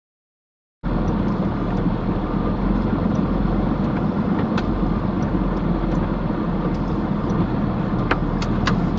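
Truck running, a steady low rumble with a few faint clicks; it starts abruptly about a second in, after a moment of dead silence.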